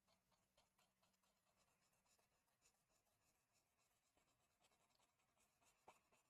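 Very faint pencil strokes on paper: short, light scratches scattered throughout, one a little louder near the end, against near silence.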